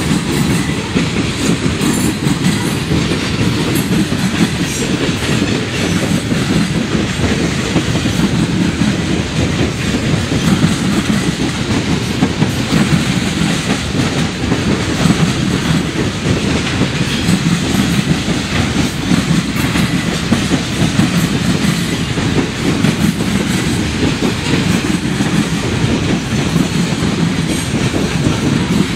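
Freight train's hopper and tank cars rolling past close by: a steady, loud rumble with wheels clattering over the rails.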